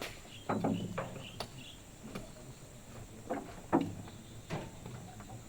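A series of irregular knocks and thuds, some with a short low ring after them, over a faint steady background hum.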